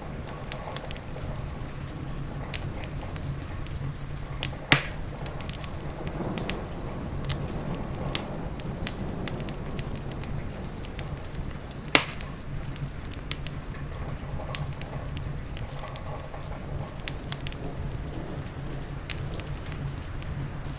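Wood fire crackling in a fireplace, with scattered sharp pops (two loud ones, about five and twelve seconds in), over a steady hiss of rain.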